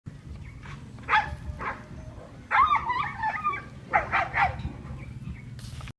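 A dog barking and yipping in short calls, with a longer run of wavering yelps in the middle, over a low steady hum.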